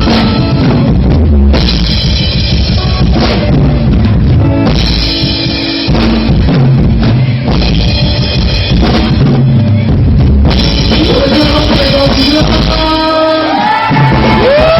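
Ska music from a band, with a drum kit and bass drum keeping a steady beat under pitched instruments.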